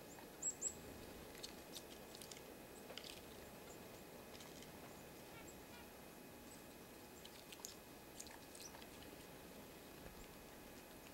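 Small birds at a winter feeder: a couple of short, high chirps about half a second in, then scattered faint ticks over a quiet outdoor hiss.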